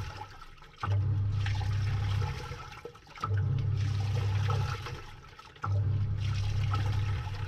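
Samsung 6.5 kg top-load washing machine agitating a wash load, heard from inside the tub: the pulsator motor hums in three bursts of about a second and a half, with short pauses as it reverses, and water sloshes around the clothes.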